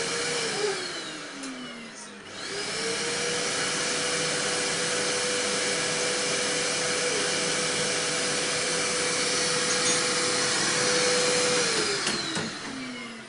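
Vacuum cleaner motor spinning down in the first two seconds, then switched on again: its whine rises, runs steadily for about nine seconds, then falls away as it is switched off near the end.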